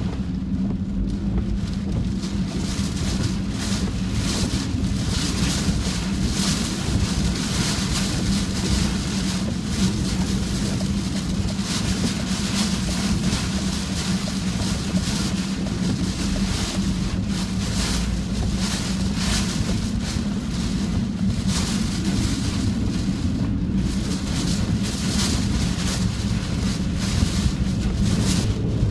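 Strong gusty typhoon wind buffeting the phone's microphone, rising and falling in gusts over a steady low hum.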